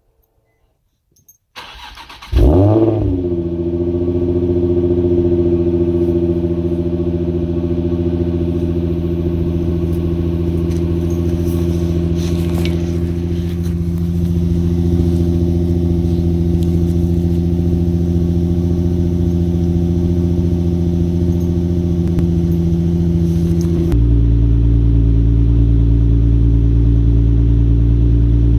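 Nissan 350Z's VQ35HR V6, breathing through an Invidia Gemini cat-back exhaust, is cranked and starts about two seconds in, flaring up briefly before settling to a steady idle. About four seconds before the end the idle note turns deeper and louder.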